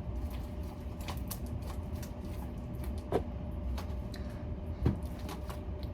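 Slime being kneaded with clay mixed in: scattered short sticky clicks and pops, two of them louder, about three and five seconds in, over a steady low rumble and a faint hum.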